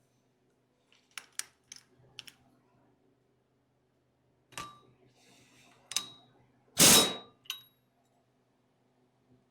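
Metal hand tools and engine parts being handled: a few light clicks, then several sharp metallic clanks that ring briefly, the loudest about seven seconds in.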